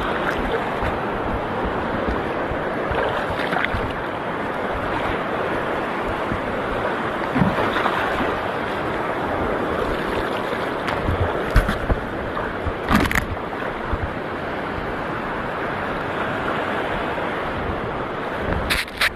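Steady wash of shallow sea water with wind on the microphone, broken by a few brief knocks about halfway through and near the end.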